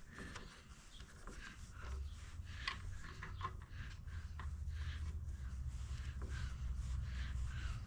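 Faint handling noises, scattered light clicks and rubbing, with a low rumble that comes in about two seconds in.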